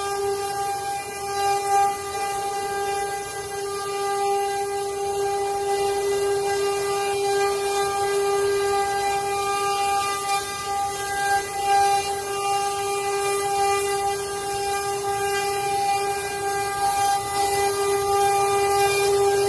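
CNC wood-carving router running, with a steady high whine from its spindle over the noise of the cutting.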